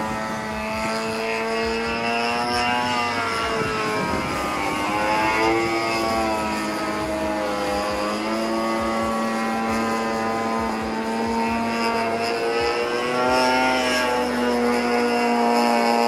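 Model airplane's 26cc gasoline engine and propeller in flight, buzzing steadily, its pitch sweeping down and back up several times as the plane manoeuvres and passes.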